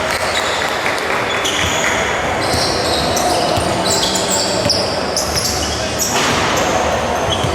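Spectator crowd in a large indoor hall during a game: many voices mixed into a steady loud din, with echo from the hall.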